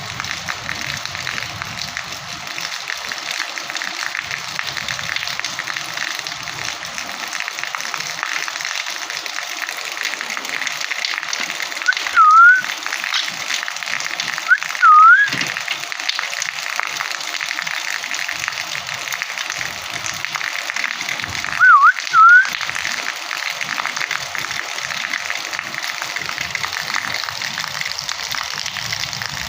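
Steady rain with a parrot giving three pairs of short, clear whistled calls, each dipping and then rising in pitch, about twelve, fifteen and twenty-two seconds in. The calls are the loudest sounds.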